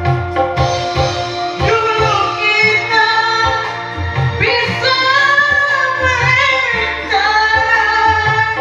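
A voice singing a slow Indonesian ballad over a karaoke backing track, drawing out long held notes that bend in pitch.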